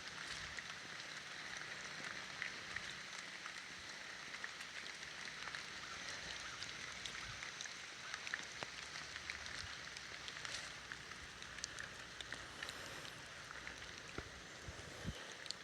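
Steady hiss of water with scattered light ticks and taps throughout.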